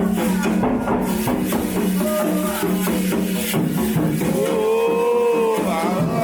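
Candomblé ritual music: steady hand percussion with shakers, and singing, with one voice holding a long, bending note about four and a half seconds in.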